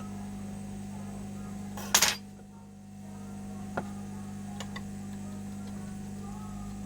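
Steady electrical hum on a repair bench, broken about two seconds in by one short, loud clatter, with a single sharp click a little under two seconds later.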